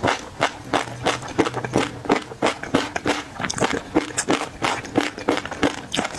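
Close-miked chewing: a quick, irregular run of sharp wet clicks and crunches, about three to four a second.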